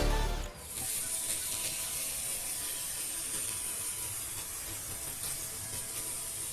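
Small geared DC motor running steadily, turning the paddle boat's paddles, with a faint whir and hiss. Background music cuts off about half a second in.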